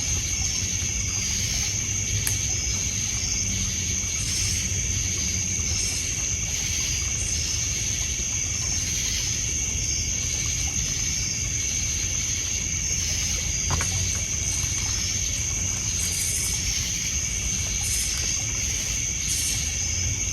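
Night ambience of crickets trilling in a steady high-pitched chorus over a campfire crackling, with a sharp pop about 14 seconds in, and water lapping low underneath.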